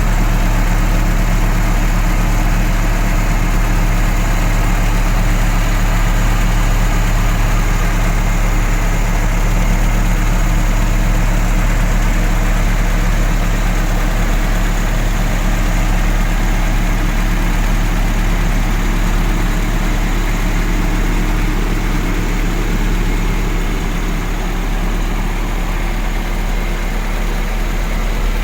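Isuzu truck engine idling steadily.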